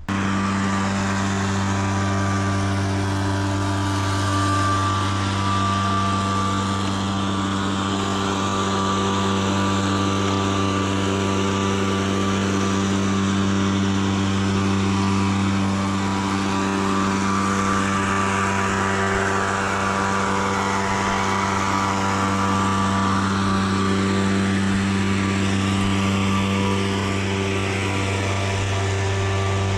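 A machine running with a steady, unchanging low hum and its overtones. It cuts in abruptly at the start.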